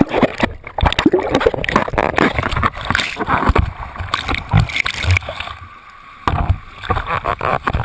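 Turbulent water splashing and sloshing in irregular bursts, with a brief quieter stretch about six seconds in.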